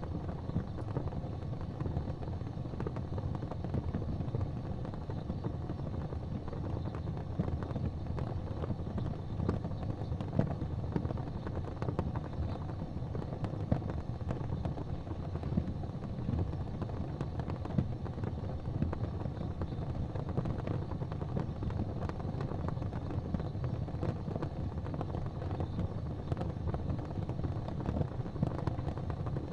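Wood fire burning in a fireplace: a steady low rumble of flames with scattered sharp crackles throughout.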